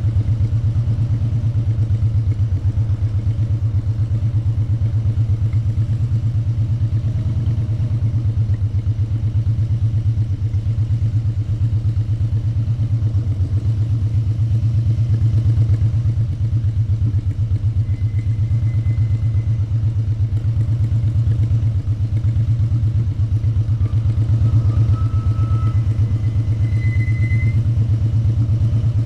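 Motorcycle engine running at a steady cruise, heard onboard from the rider's position, with an even low hum that holds steady throughout. A few brief, faint high tones come in during the second half.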